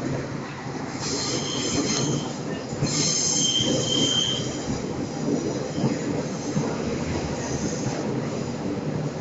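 Passenger train running along the rails with a steady low rumble, its wheels squealing in high-pitched bursts about a second in and again about three seconds in, the second held for over a second.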